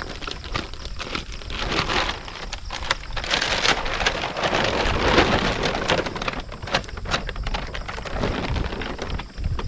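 Dry leaves and twigs crackling and rustling as they are trampled or handled, a dense run of small crackles that is loudest in the middle.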